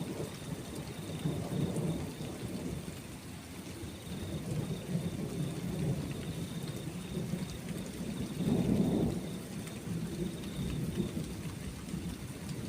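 Rolling thunder rumbling low under steady rain, swelling to its loudest about eight and a half seconds in.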